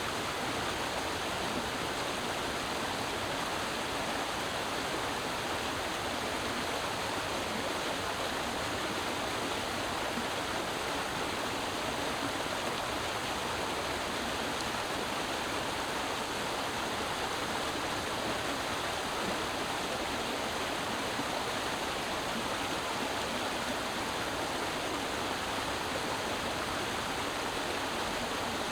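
Creek water flowing and splashing in a steady, unbroken rush.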